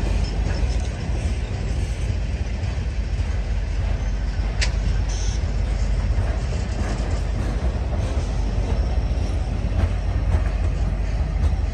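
Freight train cars rolling past, the steel wheels of a multi-axle heavy-load car and then flatcars rumbling and clattering steadily along the rails.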